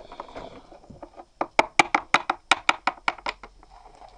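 A quick run of about a dozen sharp taps or knocks, roughly five or six a second, for about two seconds.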